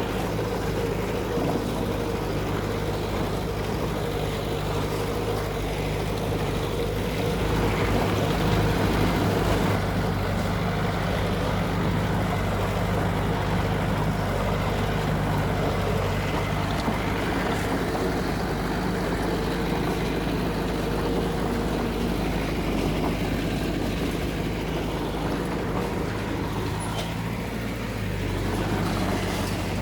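Diesel engine of heavy construction machinery running steadily under work, a little louder for a couple of seconds about a third of the way through.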